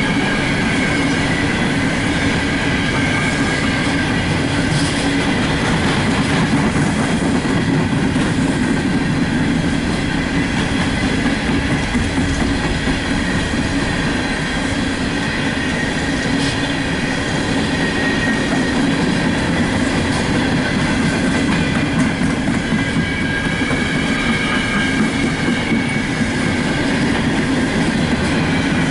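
Empty coal hopper cars of a freight train rolling past: a steady, loud rumble and clatter of wheels on rail. A faint high squeal runs through it from the train's brakes, which are being worked hard enough to run hot.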